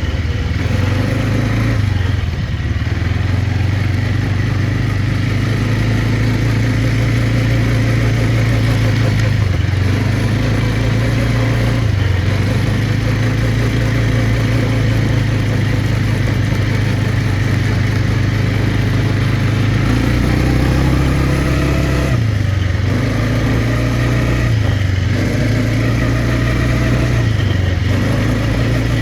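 Quad bike engine running under way, its pitch dipping and climbing again several times as the throttle eases and opens, mostly in the last third.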